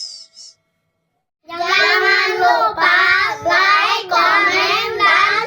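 A high singing voice in short, wavering phrases, starting after about a second of silence.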